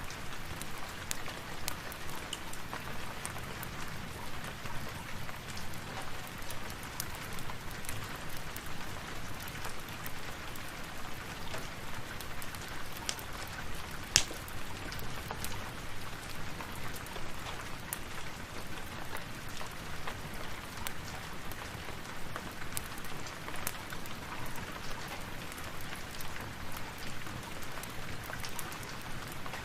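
Steady rain, with scattered small clicks and one sharp, louder pop about halfway through.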